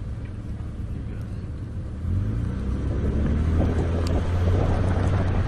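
Jeep engine pulling away and climbing a hill, a steady low engine note that grows louder about two seconds in as it takes the load.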